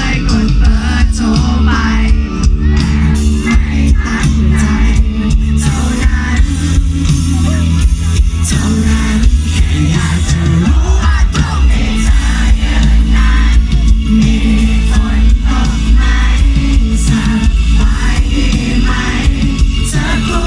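A rock band playing live, with singing over drums, bass, guitar and synth.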